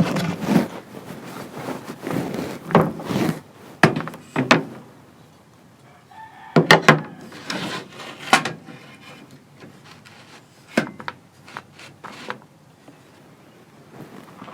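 Chickens clucking, with a rooster crowing, and a few sharp knocks in between.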